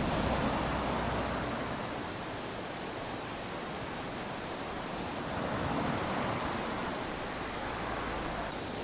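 Small ocean waves lapping onto a sandy shore: a steady wash of surf that swells as a wave runs up at the start and again about five to six seconds in.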